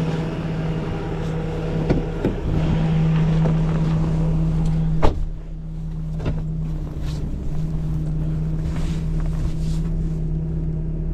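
Tow truck engine running with its hydraulic pump giving a steady hum while the wheel-lift is worked. A few light clanks, then one sharp metal clunk about five seconds in.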